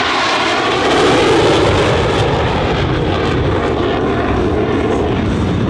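Jet noise from an EA-18G Growler's twin turbofan engines during a low pass, loudest about a second in and then holding steady.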